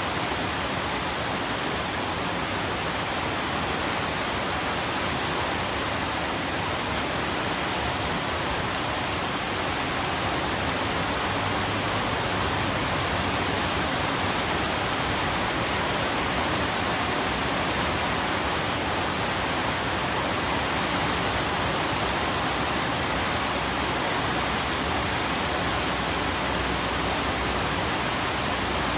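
Steady, even rain, a continuous hiss with no drops or impacts standing out.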